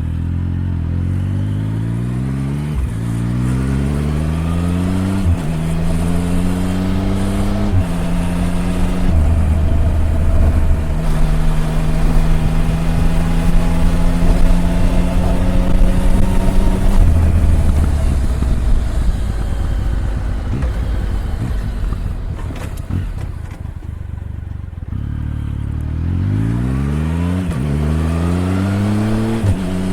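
Triumph Tiger 1050's inline-three engine accelerating up through the gears, its note climbing and dropping back at each of several quick upshifts, then holding a steady cruise. Midway it eases off, leaving mostly wind and road noise, before pulling hard up through the gears again near the end.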